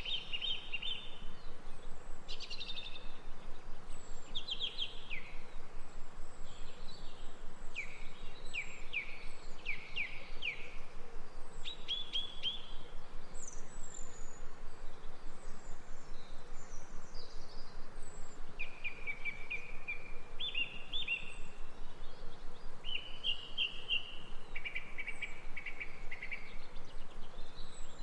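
Small songbirds singing: phrases of short, high chirps and quick downward-sweeping trills come every second or two, over a steady background hiss of outdoor ambience.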